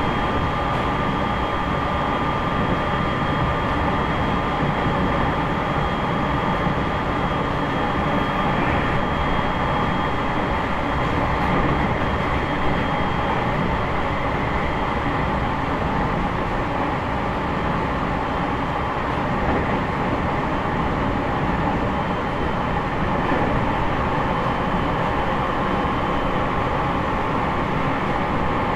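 Running noise inside a JR East E501 series electric train's motor car at speed: a steady rumble of wheels on rail, with faint steady high tones over it.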